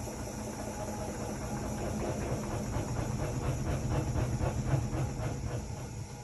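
Hotpoint-Ariston RSG 825 J washing machine running: a steady low hum with a rhythmic swish about four times a second that builds up, peaks and then dies away near the end.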